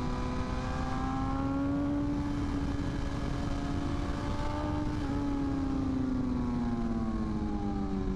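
BMW S1000RR inline-four engine pulling at steady speed over a constant rushing noise. Its pitch rises a little over the first two seconds, holds, then falls gradually through the last three seconds as the revs come down.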